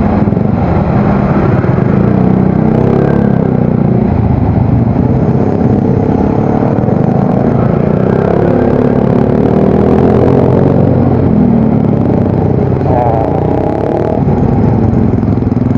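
Yamaha Mio Soul GT scooter engine and exhaust running while riding in traffic, the pitch rising and falling with the throttle.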